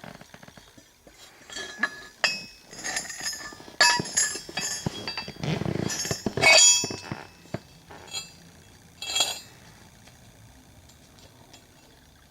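Pieces of steel clinking and clattering as they are handled and knocked together, a string of sharp ringing clinks with the loudest around the middle, settling down for the last few seconds.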